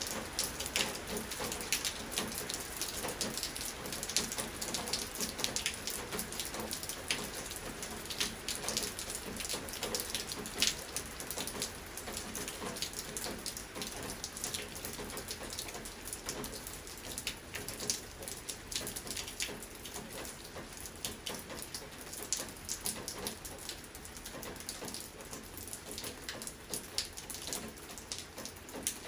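Rain falling steadily, with many sharp individual drops and drips striking a surface through a constant hiss.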